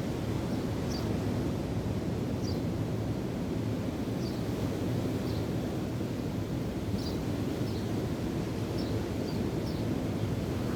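Steady rush of wind and breaking waves, with short high bird chirps scattered through it about once a second.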